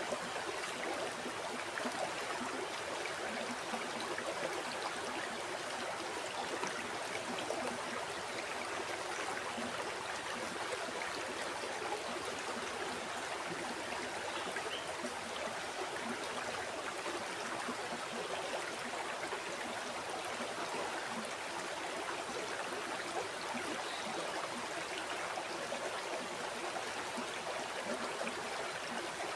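A river's flowing water burbling and rushing steadily, with no change and no other sound.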